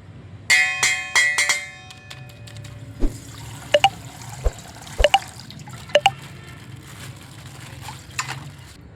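Coloured water sloshing and dripping as a water-filled plastic bag is squeezed and emptied, with sharp drip plops about once a second. A short ringing chime sounds about half a second in.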